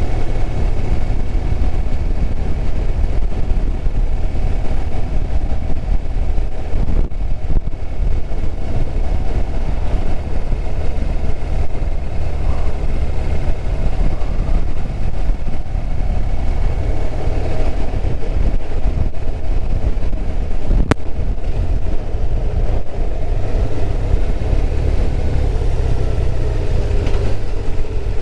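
Steady wind rush on the helmet microphone over the BMW R1200RT's boxer-twin engine running at a steady speed on the road.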